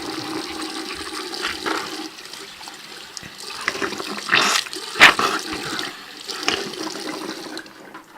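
Toilet flushing: water rushing steadily, with two louder surges about four and five seconds in, then dying away near the end.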